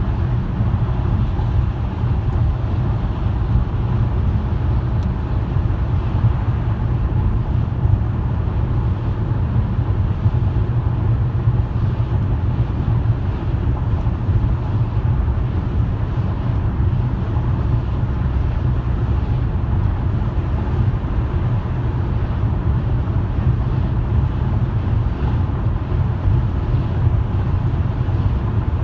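Steady low rumble of a car being driven: engine and tyre road noise.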